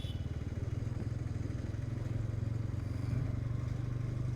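Motorcycle engine running steadily at low revs, an even low pulsing throb.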